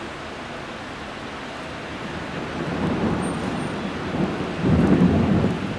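Steady rain with a low rumble of thunder that builds about halfway through and is loudest near the end.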